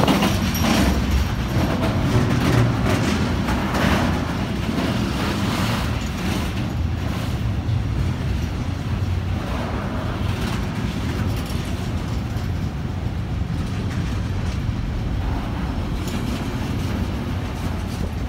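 Container freight train's wagons rolling past close by: a steady low rumble of steel wheels on the rails, with a few sharper knocks in the first several seconds.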